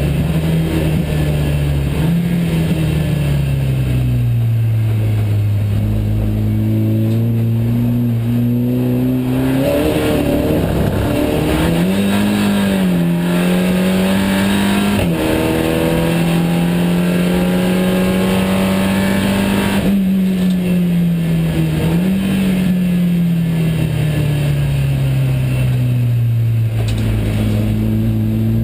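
Onboard sound of a SEAT Supercopa race car's engine being driven hard from inside the cabin. The engine note drops and holds low for several seconds, climbs about ten to twelve seconds in, holds high, then falls again and starts climbing once more near the end, as the revs rise and fall through the corners and gear changes.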